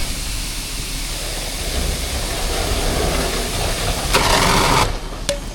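Fire engine running steadily with a broad hiss over it. Near the end comes a louder, sharp hiss lasting under a second, and then the sound changes abruptly.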